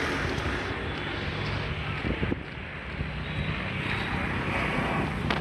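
Motorbike engine running steadily at low revs, with wind buffeting the microphone.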